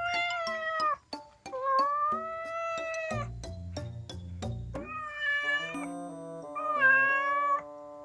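A cat meowing four times in long, drawn-out meows, over background music.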